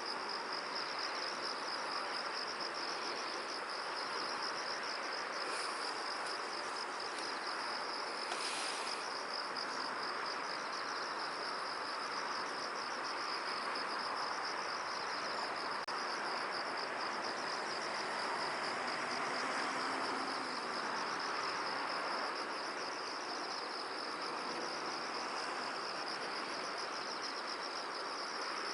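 Steady, high-pitched insect trill pulsing rapidly without a break, over a constant even hiss of wind. A brief sharper sound cuts in about eight seconds in.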